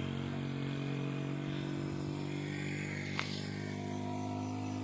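Steady, even hum of an idling engine, with one sharp click about three seconds in.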